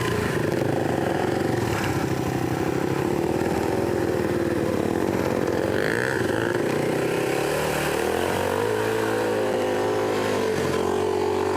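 Dirt bike engine running at low speed on a trail, its note wavering with the throttle, then settling into a lower, steadier note about eight seconds in.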